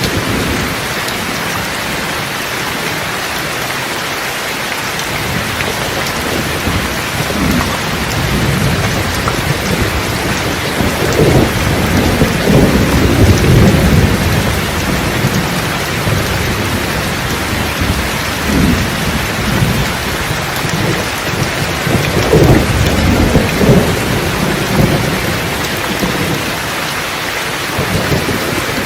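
Steady rain with rolling thunder. Low rumbles swell in from about six seconds in, loudest twice: around the middle and again a little past two-thirds through.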